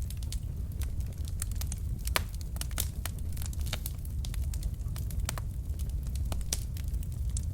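Logs burning in a fireplace, crackling with frequent irregular sharp pops and snaps over a steady low rumble of the flames.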